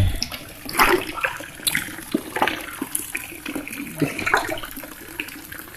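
Water splashing and sloshing, with a string of irregular sharper splashes about a second apart.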